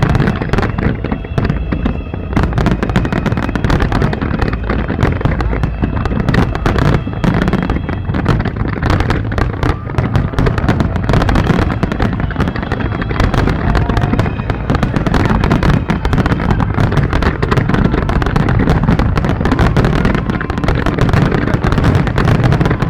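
Fireworks display: a loud, dense, unbroken barrage of bangs and crackling shell bursts.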